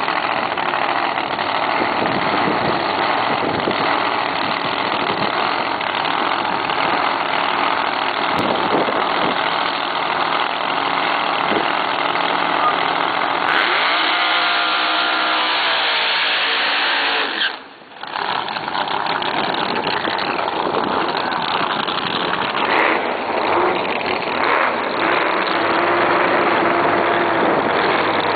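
Drag-racing car engines running loud and steady; about halfway through, one engine's pitch rises steadily for about four seconds as a car accelerates, then the sound drops away for a moment before the engine noise comes back.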